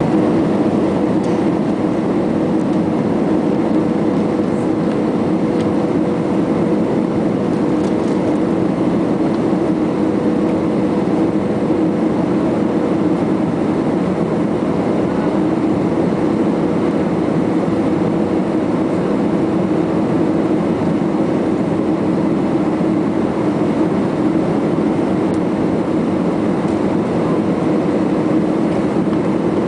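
Airbus A320 in flight on the way in to land, a steady, even roar of engines and rushing air with a constant hum in it, as heard inside the cabin.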